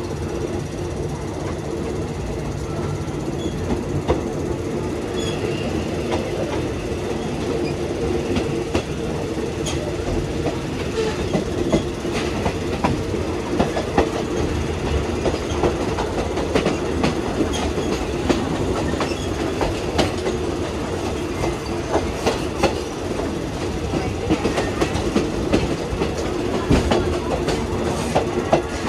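Passenger train running, heard from aboard: a steady rumble with wheels clacking over rail joints, the clacks coming thicker after about ten seconds.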